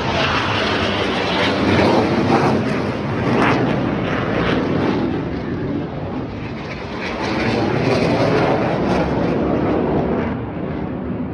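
Military jet trainers flying over, their jet engines loud, swelling about two seconds in and again around eight seconds, easing off near the end.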